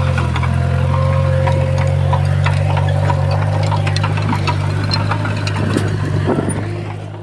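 Heavy diesel earthmoving machine engine running steadily, with scattered short knocks and clanks. It fades away in the last second.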